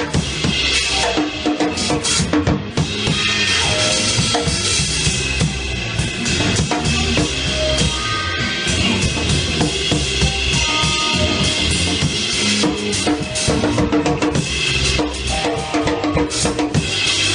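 Live band playing a song, with the drum kit (bass drum and snare) to the fore.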